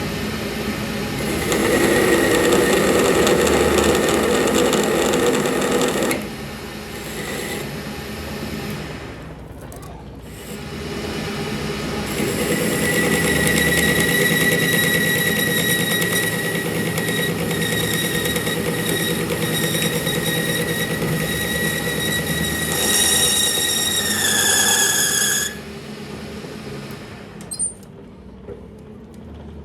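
Power tool running in two spells, about five seconds and then about thirteen seconds, with a steady high whine that drops slightly in pitch just before it stops.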